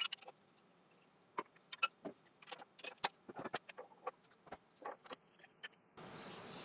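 Scattered metallic clicks and clinks of a wood-lathe chuck and worm screw being handled as the platter blank is taken off the worm screw and fitted into the chuck. Near the end a steady hiss starts suddenly.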